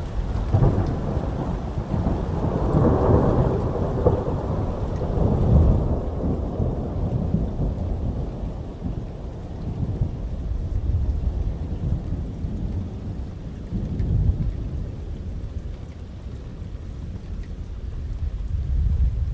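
Thunder rolling through heavy rain. A long rumble builds in the first few seconds and fades away over the next several, a smaller low rumble swells about two-thirds of the way through, and a steady rain hiss runs underneath.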